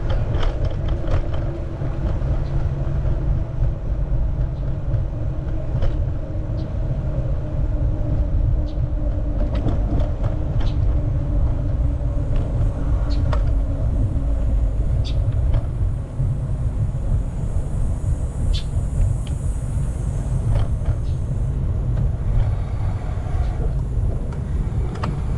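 Wind rushing over the microphone of a moving bicycle, with a steady low hum under it and scattered light clicks.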